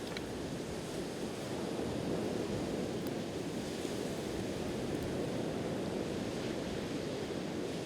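Steady wash of sea waves on the shore, with a few faint crackles from a wood fire.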